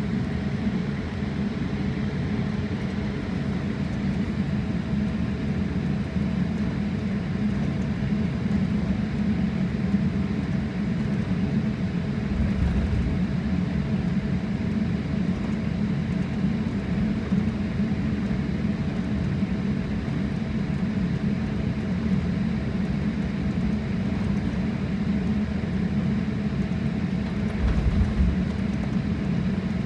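Jet airliner cabin noise as the plane taxis: a steady engine and air hum with a constant tone. Two short low bumps come about twelve seconds in and again near the end.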